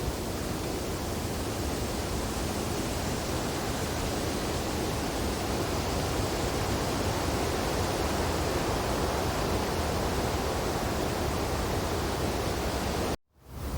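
Wind blowing steadily through tree branches: an even rushing noise with a deep rumble underneath. It cuts out abruptly for a fraction of a second near the end, then comes back.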